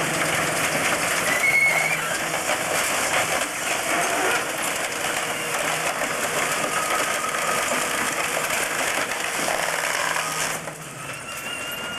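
Refuse truck's compactor crushing bulky junk: dense crackling, snapping and splintering over the steady drone of the truck's engine and hydraulics, with a few short squeals. The crushing stops about ten seconds in, leaving the engine running.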